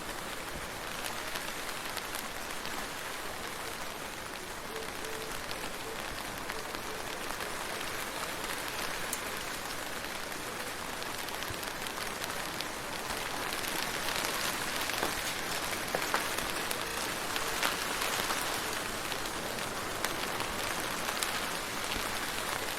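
Steady rain falling on a surface, with many separate drops ticking through the hiss; it gets a little heavier about halfway through.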